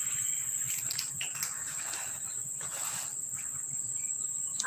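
A steady high-pitched insect trill, typical of crickets.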